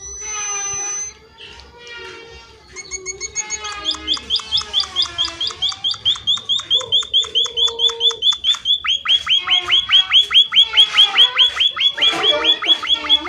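Emprit (a small munia finch) singing: a brief high whistle and some lower warbling notes, then from about three seconds in a fast trill of repeated hooked high notes, about eight or nine a second, growing louder toward the end.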